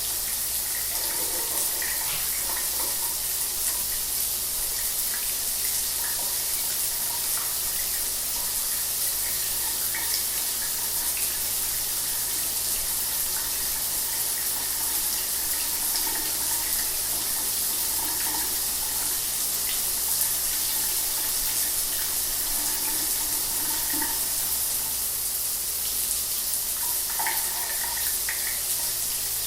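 Shower water running steadily, an even hiss of spray with small splashes scattered through it.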